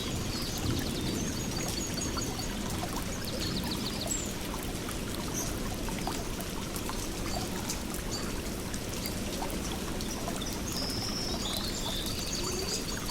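Steady flowing, trickling stream water with small birds chirping over it. The short, high calls come in clusters near the start, around three seconds in, and again near the end.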